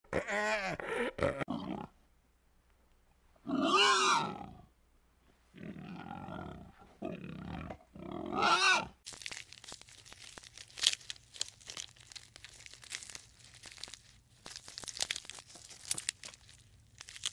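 An animal calling several times, in short pitched calls, then about halfway through a long run of crunching and crackling.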